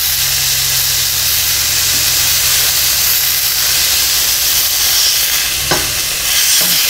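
Tuna steaks searing in a hot pan, sizzling steadily, with a steady low hum underneath.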